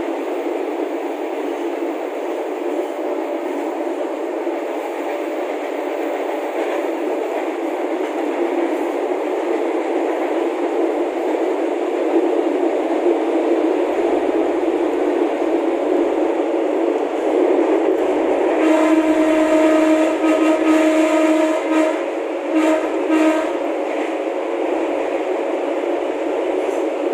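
Running noise inside the driver's cab of a KRDI diesel railcar on the move. About two-thirds of the way in the train's horn sounds: one long blast, then two short ones.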